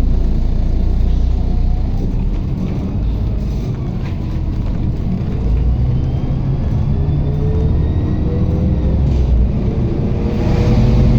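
MAZ-107 city bus driving, heard from inside the passenger cabin: a steady low engine and road rumble, with a thin whine that rises slowly in pitch over the second half as the bus picks up speed.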